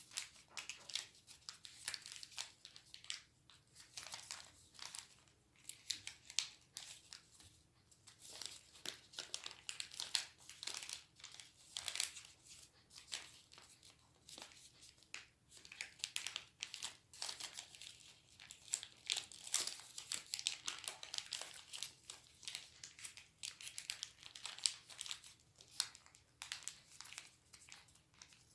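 A sheet of origami paper being handled and folded by hand: irregular crinkles, rustles and crisp little creasing snaps, with a faint room hum underneath.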